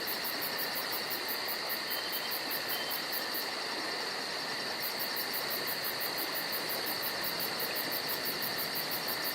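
Insect chorus of the cricket kind, trilling steadily: constant high tones under a very high, evenly pulsed chirping several times a second.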